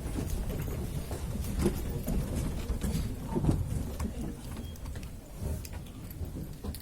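A group of people standing up and shuffling about: scattered scrapes, knocks and clicks over a low rumble.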